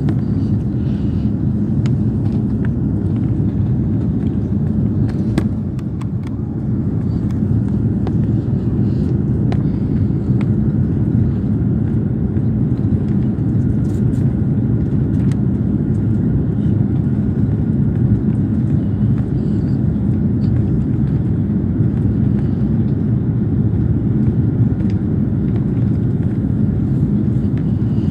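Steady drone of an Airbus A340 airliner heard from inside the passenger cabin, a low rumble of engines and airflow with a faint steady whine above it.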